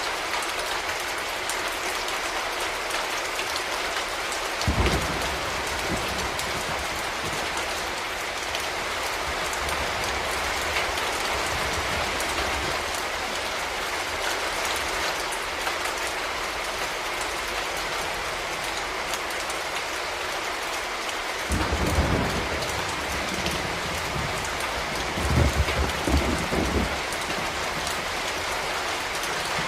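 Steady rain falling on a surface, an even patter of drops. Brief low rumbles come through about five seconds in, again around twenty-two seconds, and near the end.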